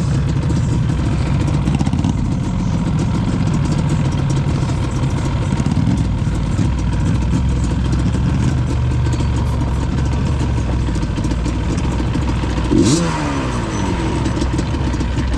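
Yamaha Banshee's twin-cylinder two-stroke engine running steadily at low revs, then revving up quickly near the end, with a sharp knock as the rev begins.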